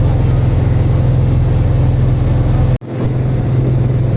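Boat engine running with a steady, loud low drone; it cuts out for an instant about two-thirds of the way through, then carries on.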